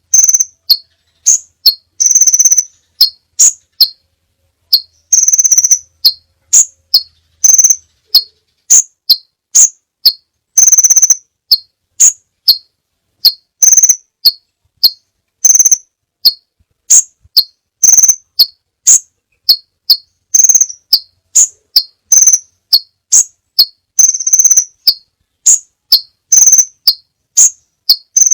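Crimson sunbird calling: a fast, unbroken string of short, high-pitched chirps, about two or three a second, broken every few seconds by a longer trill.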